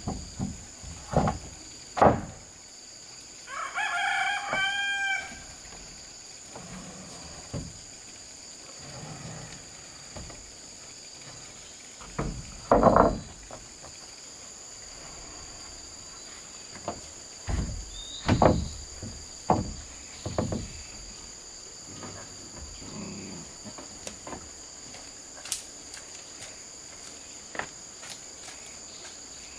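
A rooster crows once, about four seconds in, over a steady high insect drone. Scattered loud knocks and thumps come and go through the rest, louder than the crow.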